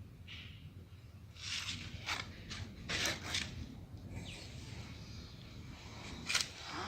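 A few short scrapes and knocks at irregular intervals, the sharpest one about six seconds in, over a low background hum.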